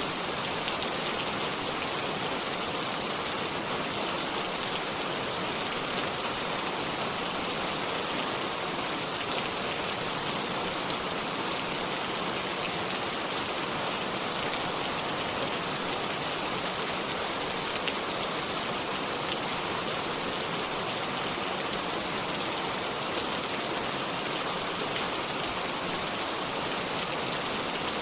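Steady rain falling: an even hiss with the fine ticks of individual drops running through it.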